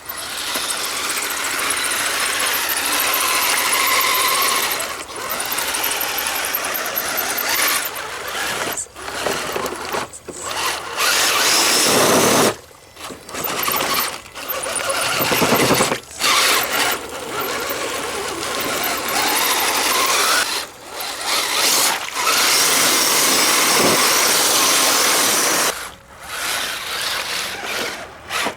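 Axial SCX10 Dingo 1/10-scale RC truck on tracks, its electric motor and geared drivetrain whining under throttle. It runs in stretches of a few seconds and cuts out briefly about ten times as the throttle is let off and applied again.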